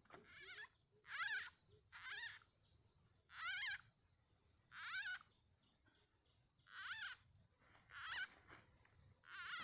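An animal's short, wavering calls repeated about once a second, over a steady high insect drone.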